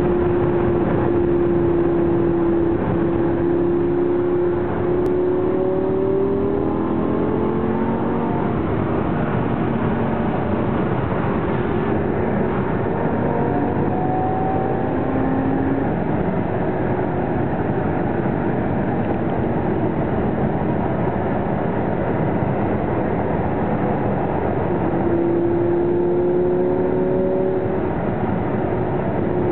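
Lamborghini Gallardo LP560-4's V10 engine heard from inside the cabin while driving, over steady road and wind noise. Its pitch climbs about five to eight seconds in, wanders up and down through the middle, and holds steady again near the end.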